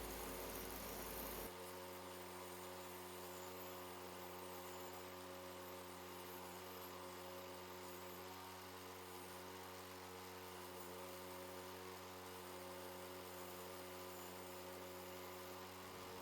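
Faint, steady electrical mains hum, a low buzz that does not change pitch, with light hiss above it.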